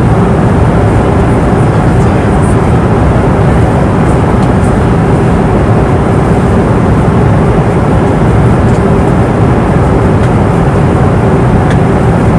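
Steady airliner cabin noise in flight: a constant deep rushing hum of engines and airflow, with a faint steady tone running through it.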